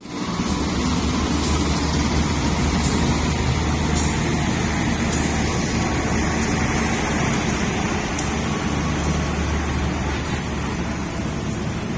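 A train running at the station: a steady low rumble with faint sharp clicks about once a second.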